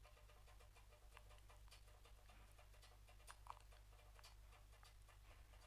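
Near silence: a low steady hum with faint, scattered clicks.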